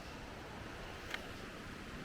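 Steady rush of a creek's water running toward the top of a waterfall, with one short high click about a second in.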